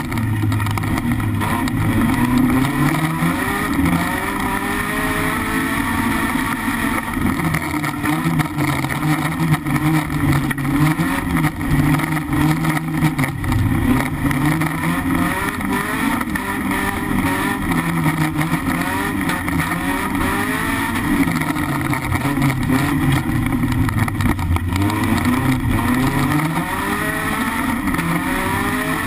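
BMW E36 318iS four-cylinder engine heard from inside its stripped racing cabin, revving hard on a dirt autocross track. Its pitch climbs and drops again and again every few seconds as the car accelerates and lifts off.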